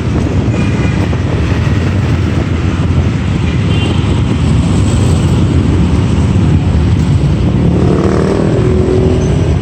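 Riding on a motorbike taxi in city traffic: steady engine and road noise with wind buffeting the microphone. A pitched engine note rises briefly near the end.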